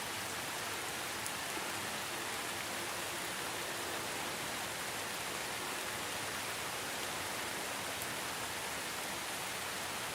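Steady rain falling, an even, unbroken hiss with the odd faint drop tick.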